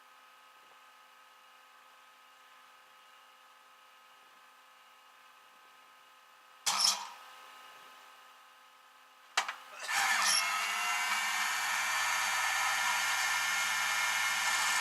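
A power tool runs steadily for about five seconds in the second half, preceded by a short loud burst and a sharp click; before that only a faint steady hum.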